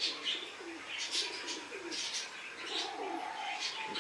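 Caged birds calling: quick high chirps about twice a second, mixed with repeated low cooing calls and a short held whistle-like note about three seconds in.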